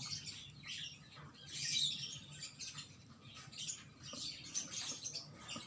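Small birds chirping, with many short high calls in quick irregular runs, over a faint steady low hum.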